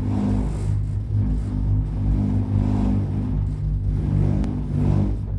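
Steady low mechanical drone at a constant pitch, running without a break and swelling slightly in level now and then.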